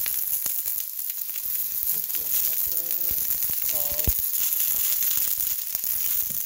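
Snow peas frying in hot oil in a stainless steel pan: a steady sizzling hiss with fine crackles, and a single sharp knock about four seconds in.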